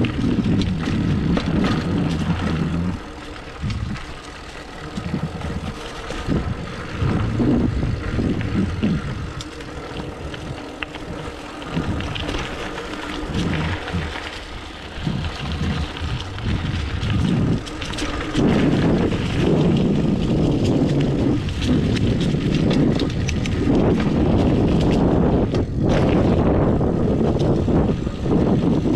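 Riding a 29er hardtail mountain bike on a dirt trail: wind buffets the microphone and the tyres rumble, with frequent short clicks and rattles from the bike over bumps. The buffeting grows louder in the second half.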